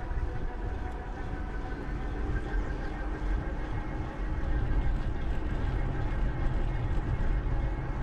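Steady rumble of wind and rolling noise from a moving bicycle on a GoPro's microphone, with a faint steady hum running through it.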